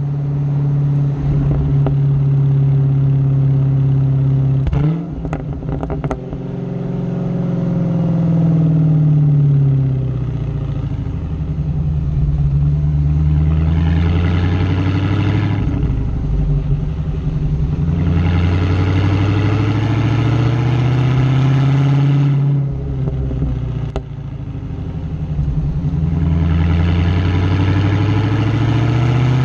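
Dodge Hellcat's supercharged 6.2-litre Hemi V8 exhaust under hard acceleration, the pitch climbing through each gear and dropping back at each shift, about four times.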